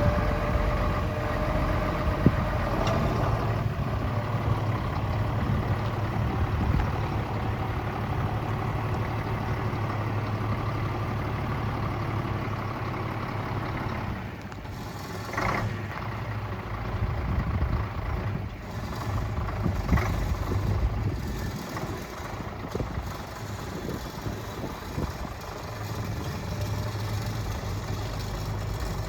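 Vintage Scania truck's diesel engine running steadily at idle, with a few short, sharper sounds about halfway through.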